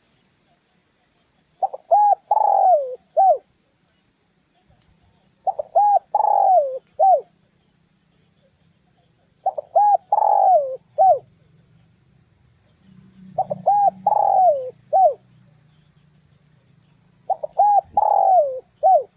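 Spotted dove cooing: five identical song phrases about four seconds apart, each two short coos, a long drawn-out falling coo and a short closing coo.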